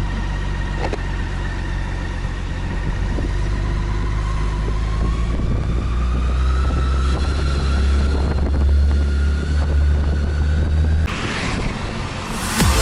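Motorcycle under way on the road, its engine running with a steady low rumble and a whine that climbs slowly in pitch as it gains speed. The sound changes abruptly about eleven seconds in, and music starts near the end.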